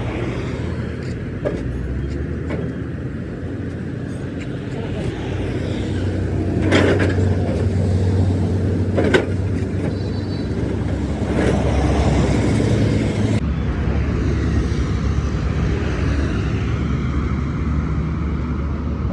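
Road traffic with vehicle engines running steadily, broken by a few sharp knocks about 7, 9 and 11 seconds in.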